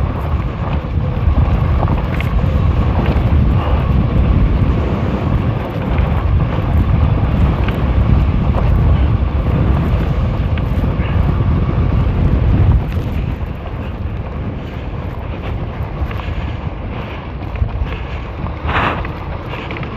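Wind buffeting the microphone while riding a fat-tire e-bike at speed, a dense rumble that eases about two-thirds of the way through, with a faint steady whine beneath it.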